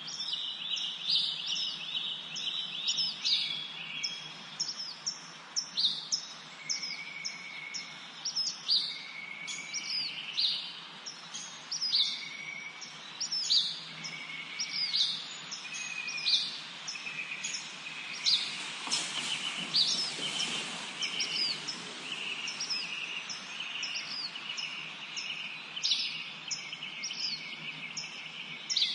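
A chorus of several songbirds singing in a forest: rapid high chirps and trills, with one bird repeating a short whistled note every couple of seconds, over a steady background hiss. A brief rush of noise swells and fades about two-thirds of the way through.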